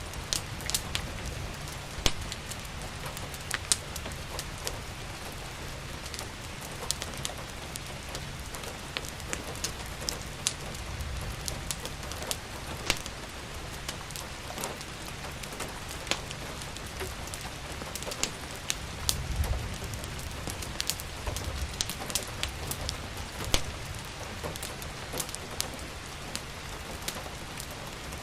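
Steady rain falling, with irregular sharp crackles and pops from a wood fire in a fireplace. A brief low rumble comes about two thirds of the way through.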